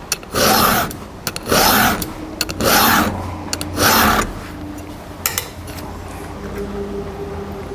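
Round file rasping across a damaged chainsaw cutter in four strokes about a second apart, then stopping, with a small click a little later. The strokes file the damage out of a battered tooth.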